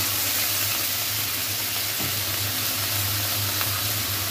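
Capsicum and onion sizzling in a hot iron wok, a steady hiss with steam as splashed vinegar flashes off, with a couple of faint clicks from the metal spatula.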